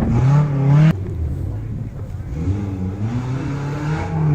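Off-road 4x4's engine revving, its pitch rising and falling. The sound breaks off abruptly about a second in and then picks up again, wavering.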